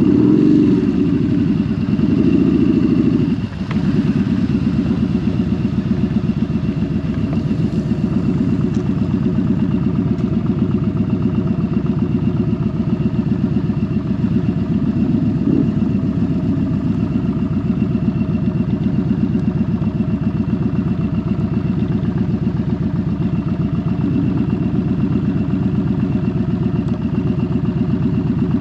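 Motorcycle engine running steadily while riding, with a rapid even pulsing. The sound dips briefly about three and a half seconds in.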